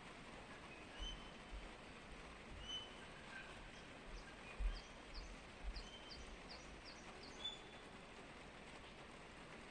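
Faint bird chirps, short calls repeating every second or so, with a quick run of high, falling chirps in the middle. A few soft low thumps come through too, the strongest about halfway.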